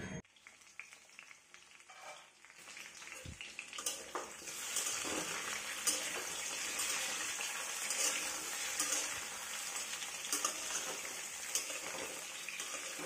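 Sliced potatoes and pointed gourd (aloo parwal) sizzling as they fry in a kadai, with a metal spatula clicking and scraping against the pan as they are turned. The sizzle starts about three seconds in and then holds steady.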